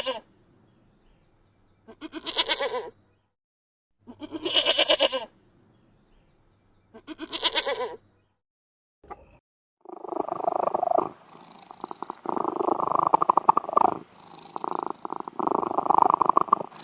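Goat bleating three times, each call about a second long with a quavering tremble. From about ten seconds in, a long run of rough, rapid pulsing from an animal follows, broken by a few short gaps.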